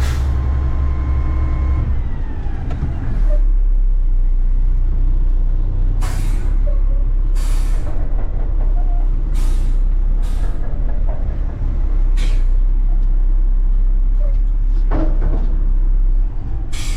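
Front-load garbage truck's diesel engine running, with a steady whine that stops about two seconds in. About a second later the engine revs up and holds a deeper, louder drone to power the hydraulic lift arms. Short sharp air hisses come every second or two.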